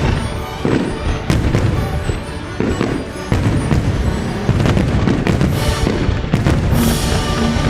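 Aerial fireworks shells bursting in quick succession, deep booms with crackling and hissing trails, over accompanying show music.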